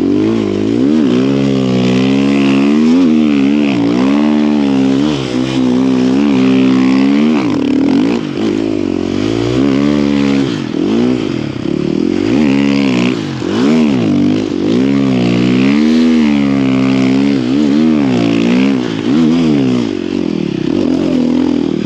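Snow bike engine revving up and down repeatedly as the rider works the throttle through steep, tight trees in deep snow, the pitch rising and falling about once every second or so.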